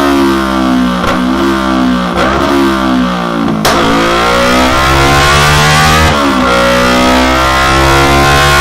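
Kawasaki Ninja 300's parallel-twin engine revving hard through a Delkevic Mini Round carbon fibre end can with the baffle out. The revs drop and climb again several times in the first few seconds, then hold high and steady.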